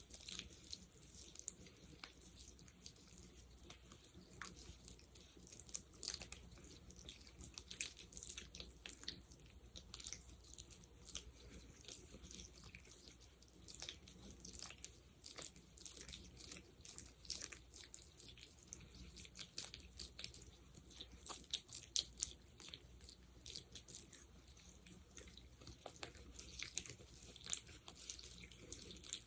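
Sticky gel worked between fingers close to the microphone: a dense, irregular stream of small wet clicks and crackles.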